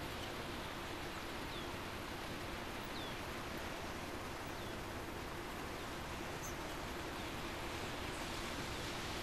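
Steady outdoor hiss, with a bird repeating a short, falling chirp about every second and a half.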